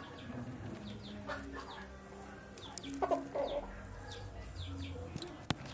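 Young chicks peeping: a steady run of short, high, falling cheeps, with a few sharp clicks, the loudest near the end.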